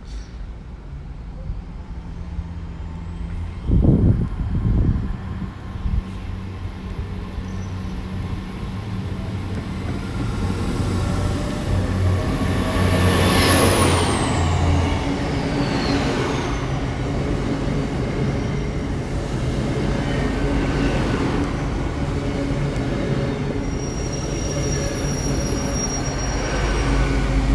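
Hitachi Class 800 IET train running on its diesel engines: a low engine drone that grows louder, with a high whine that rises at the start, holds, and falls away about halfway through. Two loud thumps come about four seconds in.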